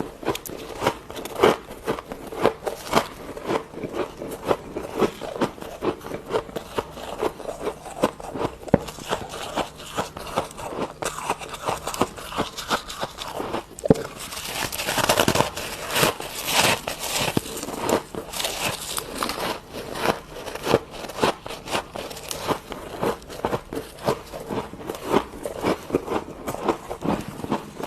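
Close-up crunching of a mouthful of freezer frost being bitten and chewed, irregular crisp crunches throughout, with a louder, denser stretch of crunching about halfway through.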